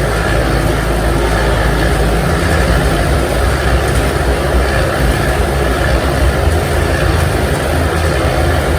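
Several motorcycle engines running continuously inside a steel globe-of-death cage, a loud, unbroken drone that thickens in the low end about two seconds in.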